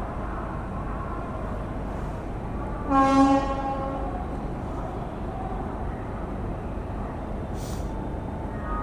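A train horn sounds one short blast about three seconds in, over a steady low rumble of station noise.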